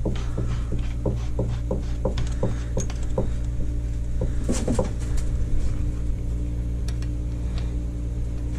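Evenly spaced metallic clicks, about two and a half a second, from a hand tool tightening the mounting hardware of a mud motor. They stop after about three seconds, with a brief clatter of metal a little later. A steady low hum runs underneath.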